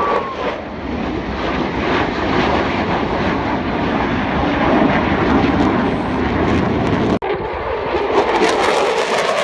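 Display aircraft flying past, a loud steady engine rush that drops out for an instant about seven seconds in.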